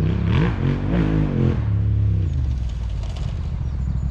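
Yamaha Ténéré 700 rally bike's parallel-twin engine on the throttle off-road, its pitch rising and falling over the first second and a half, then settling to a steadier lower note.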